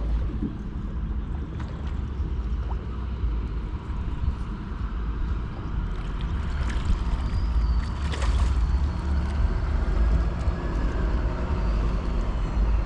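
A boat motor running as a low, steady rumble on the water. A brief sharp noise stands out about eight seconds in.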